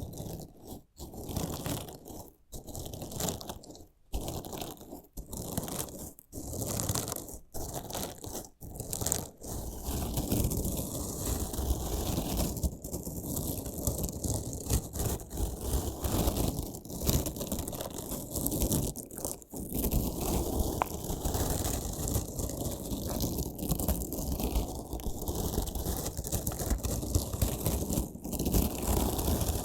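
Crunchy slime packed with small decorative stones being cut and pressed, crunching and grinding. Separate crunches come about once a second for the first nine seconds or so, then it turns into a continuous dense crackling grind.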